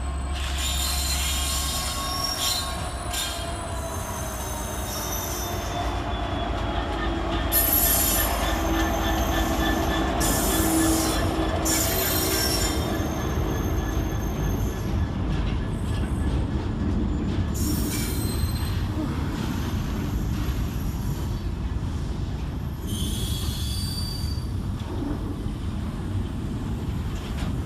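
Class 66 diesel locomotive's EMD two-stroke V12 running as it hauls a freight train past, with a continuous rolling rumble. Wagon wheels squeal sharply several times, at about 8, 10, 12, 18 and 24 seconds in.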